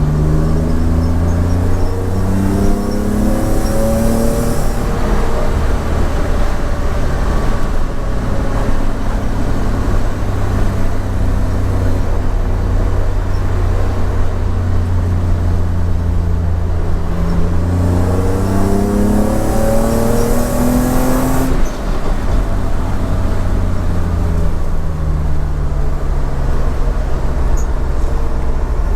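BMW E28's swapped M50B25 2.5-litre inline-six, breathing through Schmiedmann stainless headers and a 3-inch stainless exhaust with mid and rear silencers, accelerating hard twice. The revs climb for about five seconds and cut off sharply, and the engine runs steadily. Later a second rising pull ends abruptly and the revs fall away.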